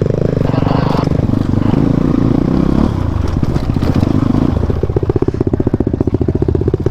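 Motorcycle engine running under load on a rough trail, its pitch shifting up and down as the throttle changes.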